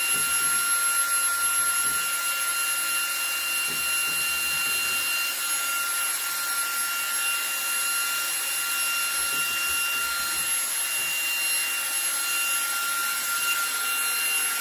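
eufy HomeVac H30 Mate cordless handheld vacuum running steadily on max power, a high-pitched motor whine over a rushing of air as it sucks dust out of a bathroom exhaust fan vent.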